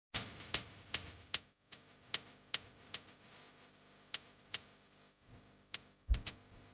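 Clock ticking at an even pace, about two and a half ticks a second, pausing briefly in the middle, with a low thud and two quick ticks near the end.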